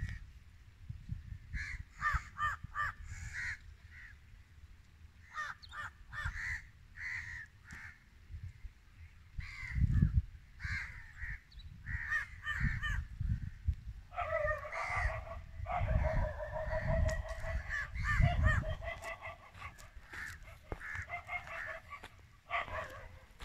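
Birds calling again and again in short groups of notes, with a longer, denser run of calls in the second half. Wind rumbles irregularly on the microphone underneath.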